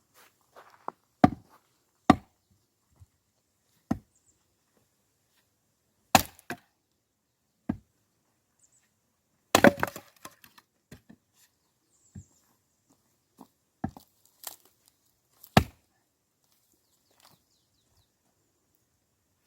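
Axe splitting firewood logs: a string of sharp, separate chops, with a longer burst of cracking and clatter about ten seconds in, as a log splits apart.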